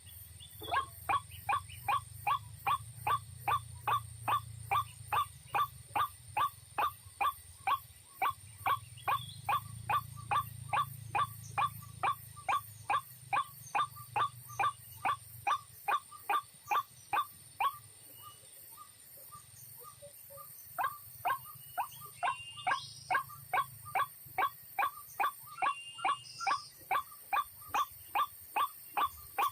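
White-breasted waterhen giving its monotonous, repeated kwak call, about three notes a second, which pauses for a few seconds in the middle and then starts again. A few faint higher chirps from another bird come in the second half.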